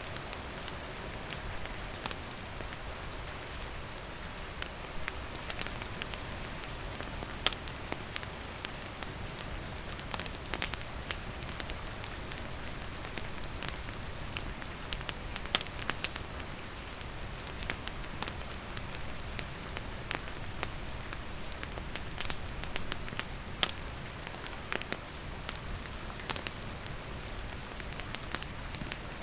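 Steady rain falling, with a campfire crackling through it in sharp, irregular pops.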